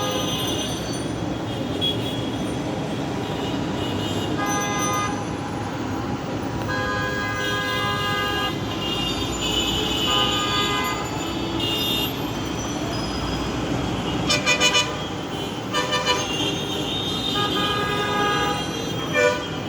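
Street traffic with a steady rumble and repeated vehicle horn honks, several held for a second or two. A quick run of short, loud sounds comes about fourteen seconds in, and another near the end.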